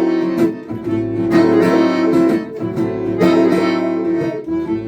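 Acoustic instrumental introduction of a French chanson: strummed acoustic guitar with sustained melody notes from violin and accordion, in phrases of about a second.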